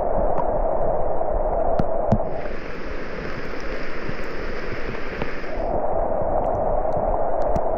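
Heavy rain falling as a loud, steady hiss. It turns brighter from about two seconds in, then duller again near the end.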